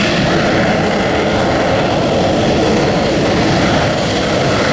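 Military jet aircraft flying a display, its engines a loud, steady rushing noise.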